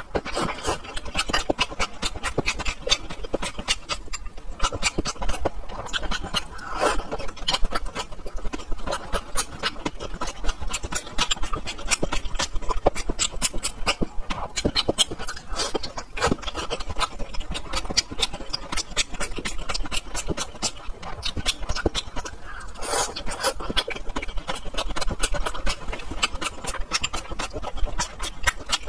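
Close-miked chewing and lip-smacking of steamed beef dumplings, a steady run of quick moist mouth clicks.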